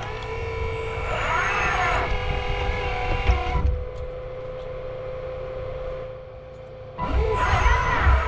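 RC 1/8-scale 385CF excavator's hydraulic pump running with a steady whine, surging and changing pitch as the arm works under load about a second in and again near the end, and quieter in between.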